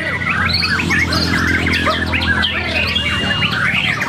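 Several white-rumped shamas singing at once, a dense overlapping tangle of fast whistles, trills and chattering phrases, over a steady low hum.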